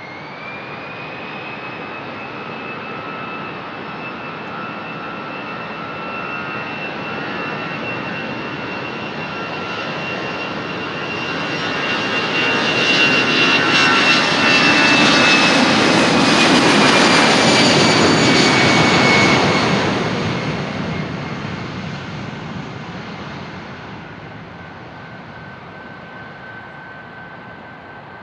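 Airbus A320's CFM56-5B turbofan engines at takeoff thrust, with a high whine that climbs in pitch within the first second and then holds. The engine noise builds to its loudest in the middle as the jet passes, the whine drops slightly in pitch, and the sound then fades as it climbs away.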